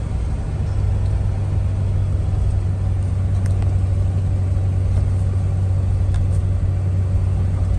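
2000 Ford F250's 5.4-litre V8 running smoothly at a steady cruise, with engine and road rumble heard from inside the cab.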